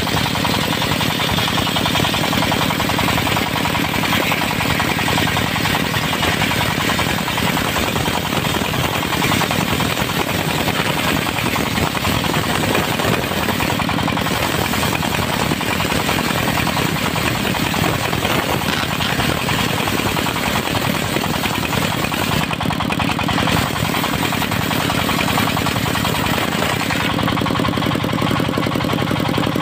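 Diesel-engine-driven circular sawmill blade cutting dry teak wood, with the engine running steadily under the sawing noise. Near the end the high sawing noise eases off while the engine keeps running.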